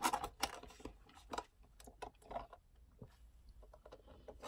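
A man chewing food close to the microphone: a scatter of short, quiet mouth clicks and smacks. Just before the end, a soft hiss begins as he sips through a straw.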